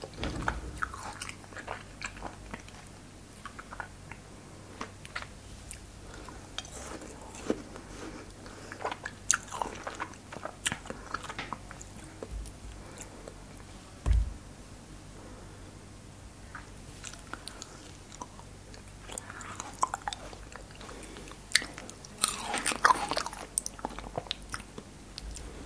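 Close-miked biting and chewing of frozen cherries: crisp crunches and mouth sounds in irregular clusters, busiest near the end. One dull low knock about halfway through.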